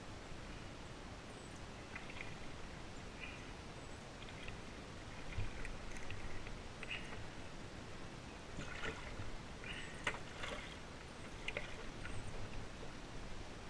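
Kayak paddle dipping in the water, with light irregular splashes and drips that are busiest in the second half.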